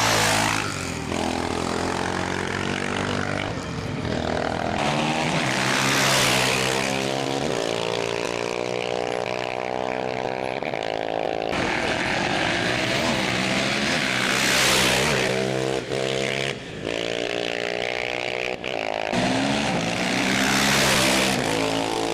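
Off-road racing motorcycles going by at speed one after another, about four close passes, their engines rising and falling in pitch.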